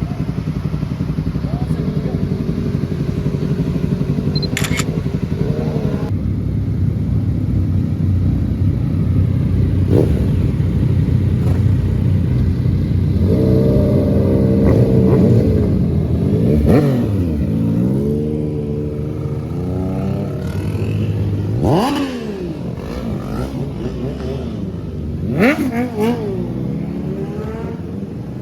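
Sport motorcycle engines running and revving, with several quick sharp rises in engine pitch as the throttle is opened hard, the loudest about two-thirds of the way through.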